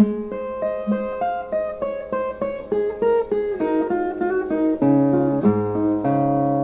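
Brazilian viola playing an instrumental break, a plucked single-note melody with lower bass notes joining about five seconds in.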